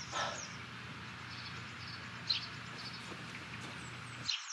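Faint bird chirps, a few short high falling calls here and there, over a low steady hum, with a short soft noise just after the start. All sound cuts off abruptly near the end.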